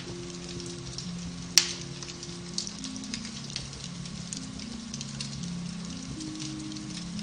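Beech-wood fire crackling in a fireplace, a steady scatter of small snaps with one loud pop about a second and a half in, over soft music of long held low notes.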